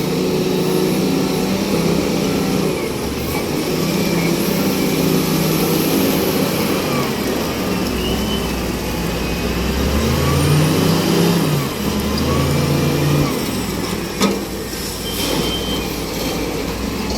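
Heavy truck engine running, its pitch rising and falling as it revs, with a couple of sharp knocks near the end.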